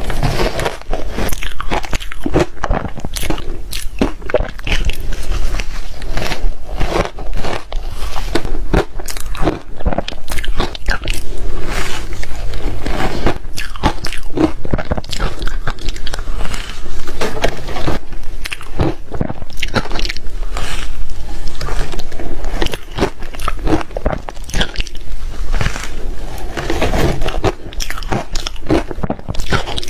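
Close-up crunching and chewing of soft reshaved ice: bite after bite in an irregular, continuous stream, loud and crisp.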